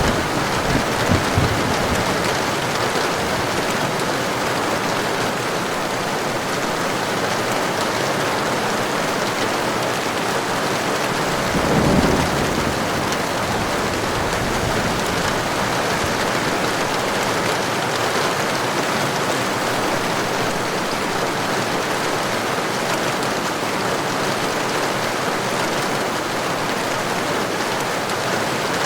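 Heavy rain falling steadily, with a short rumble of thunder about twelve seconds in and faint low rumbles at the start.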